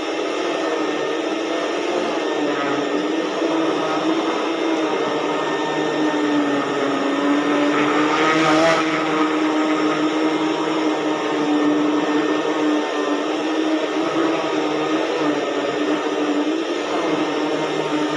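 Vacuum cleaner running steadily on carpet, a motor hum with airflow hiss. About eight seconds in the suction noise briefly gets louder and hissier, then settles.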